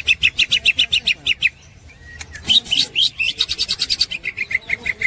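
Green leafbird (cucak ijo) singing its 'ngekek' chatter: rapid runs of repeated sharp notes, about seven a second. One run breaks off about a second and a half in, and a new one starts after a short pause.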